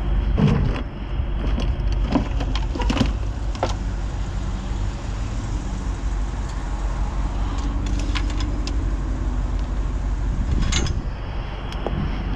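Scattered clanks and rattles of scrap being shifted around in a dumpster, over a steady low rumble.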